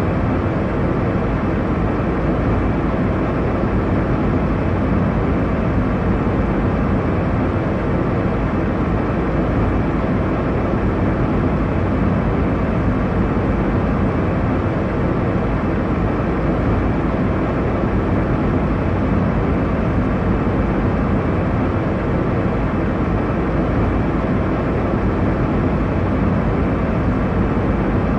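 Steady airliner cabin noise in flight: an even, low rumble and rush of engines and airflow, unchanging throughout.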